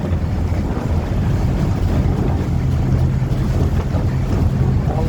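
Wind blowing across the microphone, a steady low rumble, with sea surf washing beneath it.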